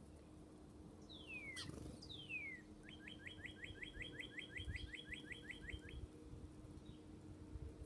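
A songbird singing: two long down-slurred whistles, then a fast run of short down-slurred notes, about five a second, lasting some three seconds.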